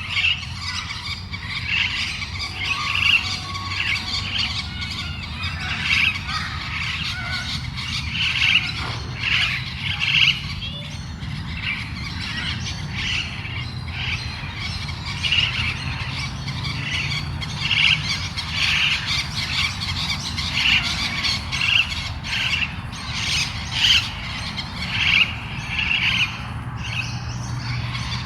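Parrot squawking and chirping in short, repeated calls, roughly one a second, over a steady low hum.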